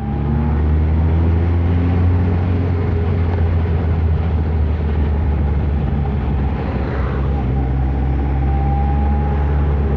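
Kawasaki ZR-7 inline-four motorcycle engine running under way with wind rush, heard from the rider's position; the engine note drops over the first few seconds, then rises again near the end.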